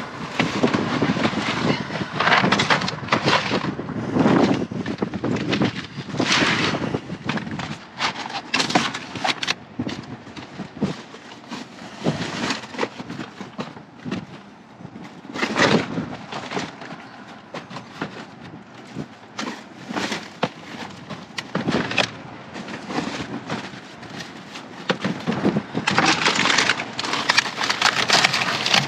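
Irregular rustling, crinkling and light knocks of food packages and wrappers being handled and set into a small pantry box, busier near the end.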